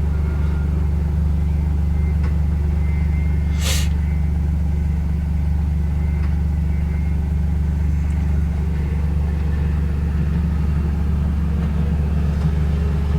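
Motor vehicle engine running at a steady speed, a constant low drone, with one brief hiss about four seconds in.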